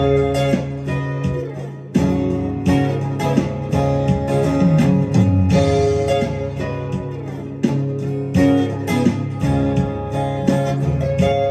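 Instrumental guitar music, plucked and strummed, over low held bass notes.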